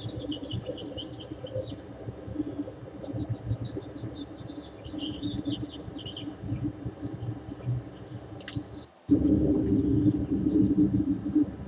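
Birds singing: short chirps, trills and quick runs of repeated high notes over a steady low background. The sound cuts out for a moment about nine seconds in and comes back with the low background louder.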